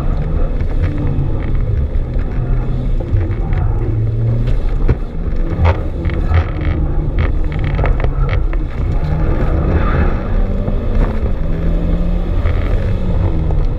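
Mitsubishi Lancer Evolution X's turbocharged 4B11T 2.0-litre four-cylinder engine running hard at about 4,500 to 5,000 rpm, heard from inside the cabin. Many short sharp clicks and knocks come through the middle of the stretch.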